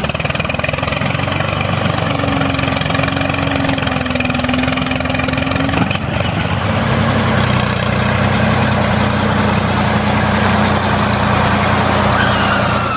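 A vehicle engine or motor running steadily, its drone dropping slightly in pitch about six seconds in.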